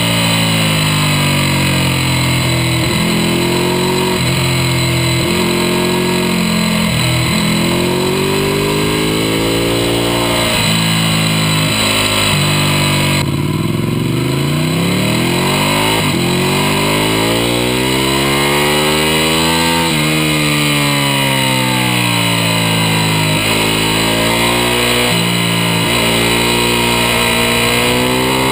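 Ducati Panigale 899's Superquadro V-twin engine under hard riding: revs repeatedly climb and fall, with sudden jumps in pitch at gear changes and long falling runs as it slows for corners, over a steady rush of wind on the bike-mounted microphone.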